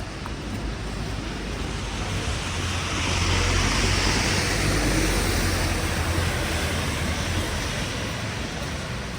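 A motor vehicle driving past on a snowy street: a low engine hum and tyre hiss swell, are loudest about four seconds in, then fade away.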